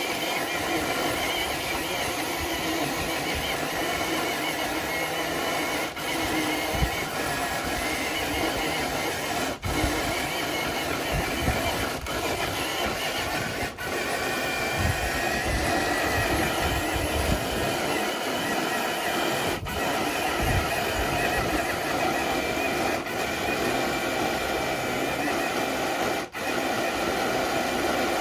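Traxxas TRX4 Sport RC crawler's electric motor and drivetrain whining steadily under load as it pulls a weighted sled, with a few instant breaks.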